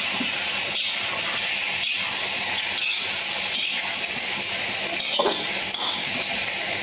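Chicken pieces sizzling steadily in hot oil in a wok, with a metal spatula scraping and knocking against the pan about once a second as they are stirred.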